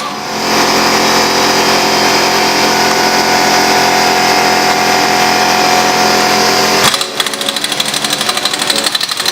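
Impact wrench hammering on the flywheel bolts of a Nissan KA24 engine, running steadily for about six seconds and then stopping suddenly.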